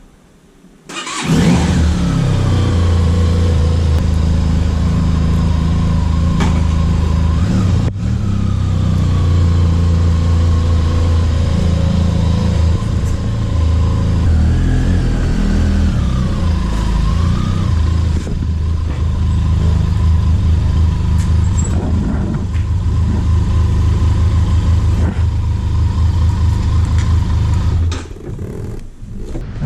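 Benelli motorcycle engine starting from cold about a second in and then idling steadily, with a brief change in pitch around the middle, before it is shut off near the end.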